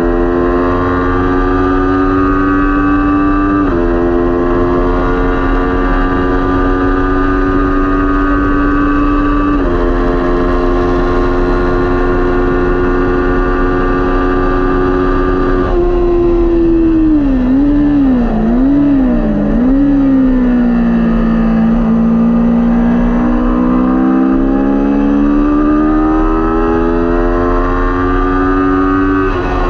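Kawasaki Ninja 400 parallel-twin racing engine at high revs, its note held nearly level with small steps at gear changes. About halfway through the pitch drops and wavers up and down through braking and downshifts. It then climbs smoothly again as the bike accelerates.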